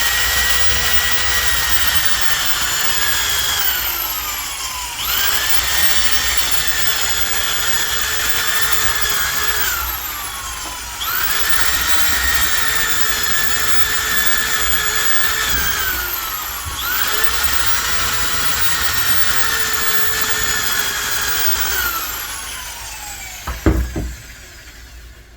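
An electric drill boring small holes into a wooden branch in four runs of several seconds each. Each run spins up to a steady whine and winds down with a falling pitch as the trigger is released. A brief knock comes near the end.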